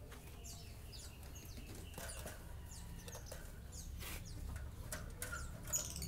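Birds chirping: short, high, falling chirps scattered irregularly, with a brief knock near the end.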